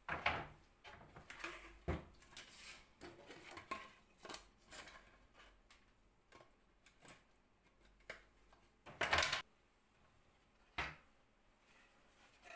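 Irregular workshop handling sounds: clicks, knocks and short scrapes of wood and hardware being handled during work on an old wooden cabinet. The loudest is a half-second clatter about nine seconds in, followed by a single sharp knock.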